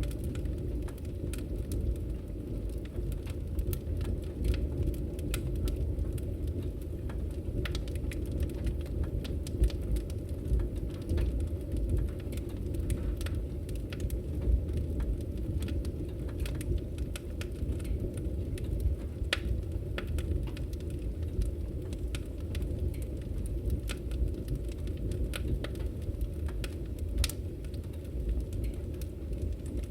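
Firewood burning in a camping wood stove: a steady low roar from the fire, with irregular sharp crackles and pops from the burning logs.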